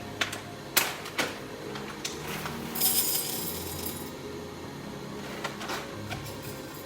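Espresso gear being handled: a few sharp clicks and knocks in the first second or so, then a short hiss about three seconds in.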